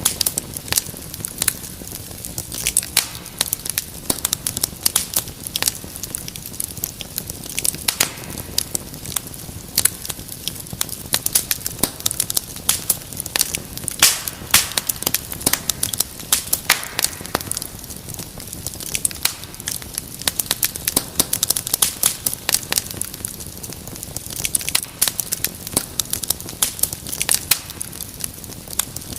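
Wood fire crackling in a fireplace: many sharp, irregular pops and snaps over a steady low hiss.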